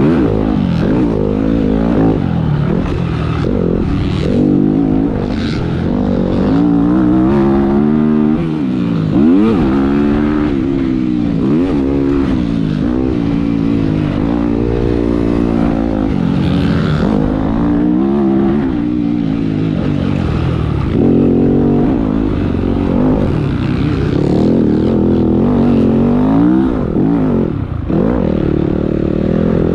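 Motocross bike engine ridden hard around a track, heard from an onboard camera. The engine pitch climbs and drops again and again as the rider revs through the gears and backs off for corners and jumps.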